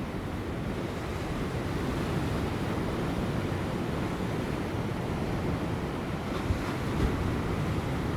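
Ocean waves breaking on offshore rocks, a steady rushing surf with a brief low thump about six and a half seconds in and another near seven seconds. Light wind buffets the microphone.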